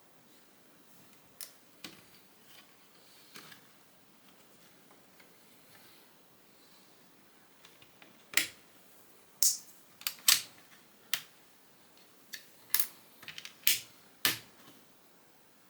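Plastic Lego bricks being handled and pressed together: a few faint clicks, then a quick run of about a dozen sharp snaps and clacks in the second half.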